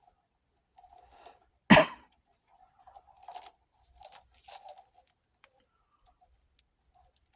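Handling noises as a power cord is fumbled and plugged in: one sharp click about two seconds in, with scattered rustling and scraping around it.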